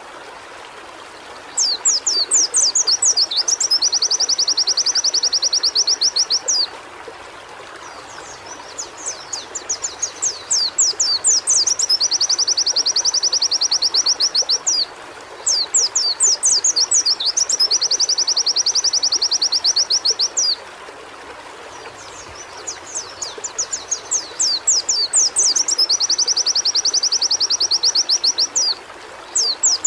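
Pleci (white-eye) singing in four long bouts, each a run of quick high chirps that turns into a fast, even trill, with short pauses between bouts. A steady hiss runs underneath.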